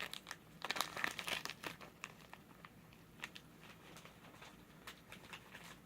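Plastic snack wrapper crinkling and tearing as a packet is handled and opened, busiest in the first two seconds, then scattered crackles.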